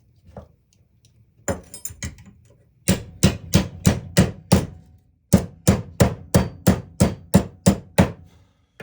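Hammer blows straightening a part: a few light taps, then two runs of sharp, evenly spaced strikes at about three a second with a short pause between.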